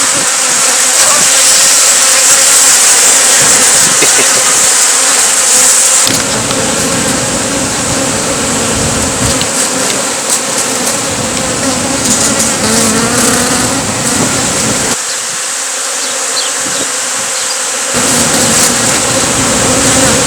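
Honey bee swarm buzzing loudly and steadily, with many bees in the air around the cluster. The sound changes about six seconds in and drops briefly between about fifteen and eighteen seconds in.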